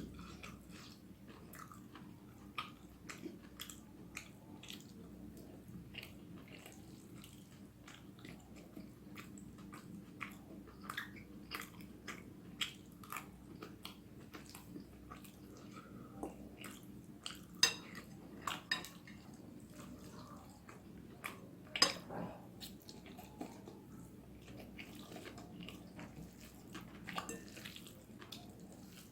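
Close-miked eating of spicy vegetable noodles: steady chewing with many soft, irregular wet mouth clicks, and two sharper, louder clicks about 17 and 22 seconds in, over a faint steady hum.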